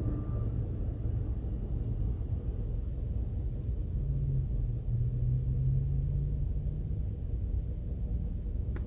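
Steady low vehicle rumble. A low hum comes up about four seconds in and fades a couple of seconds later. A short click sounds near the end.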